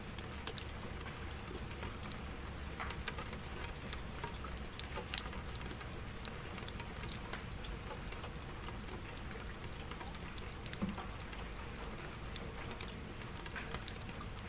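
Steady rain falling, with scattered individual drops ticking through it and a couple of louder drop hits about five and about eleven seconds in.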